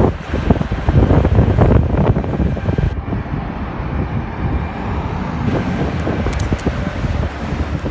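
Low vehicle rumble with wind buffeting the microphone, gustiest in the first three seconds and steadier after that.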